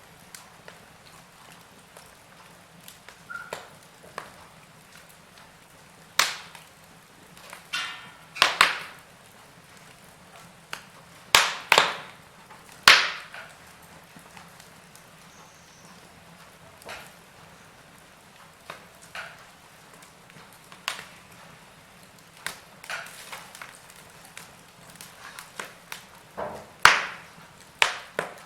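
Wood fire crackling in a fireplace: irregular sharp pops and snaps over a faint steady hiss, with the loudest cracks in the middle and near the end.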